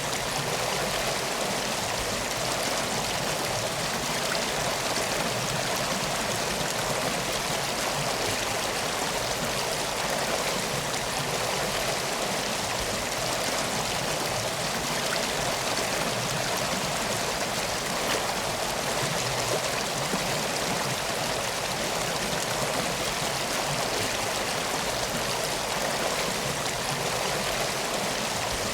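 Steady rushing flow of a river or stream, an even wash of water noise with no breaks or distinct events.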